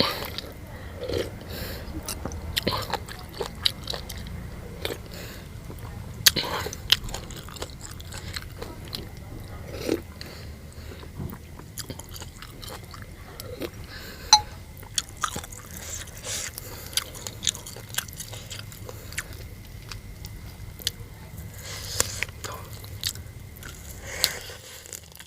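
A person eating noodle soup with pickles: chewing and biting, with irregular sharp crunches.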